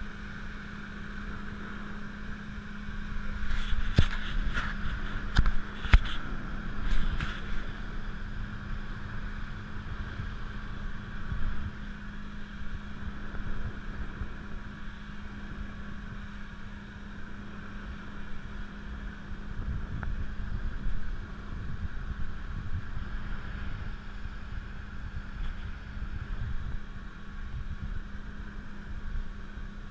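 Motorboat engine running at a steady speed, a constant hum with low rumble beneath it. A few sharp knocks come about four to seven seconds in.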